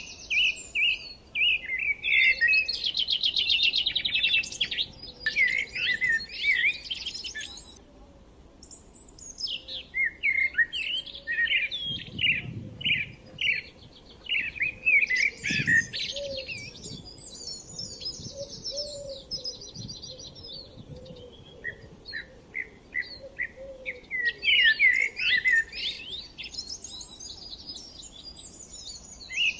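Several forest songbirds singing and chirping, with busy overlapping phrases that ease off briefly twice.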